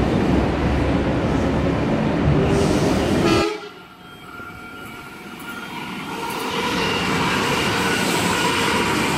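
Sydney S-set electric suburban train running with a heavy low rumble. About three and a half seconds in it cuts off abruptly to a quieter train sound that builds up with steady whining tones as a train approaches.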